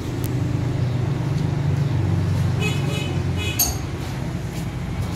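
Steady low rumble of a vehicle engine running, with two brief high chirps near the middle and a sharp metallic clink about three and a half seconds in.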